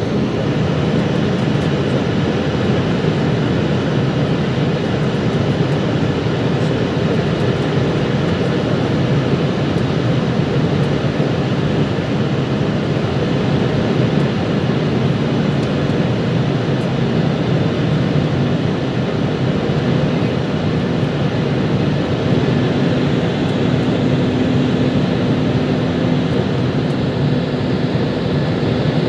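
Steady roar of engines and rushing air heard inside the cabin of an Airbus A320 airliner in flight, with a faint low hum running through it.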